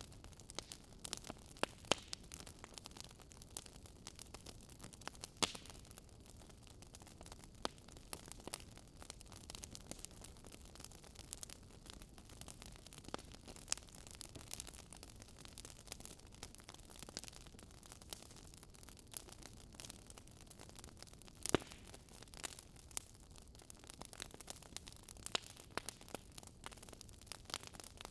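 Fire in a fireplace crackling: irregular sharp pops and snaps over a faint steady hiss, with a few louder pops scattered through, one of the loudest about three-quarters of the way in.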